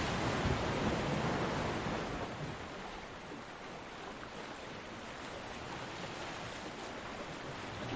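Ocean waves breaking on a beach: a wave washes in loudly at the start, then eases off after about two seconds into a softer, steady hiss of surf.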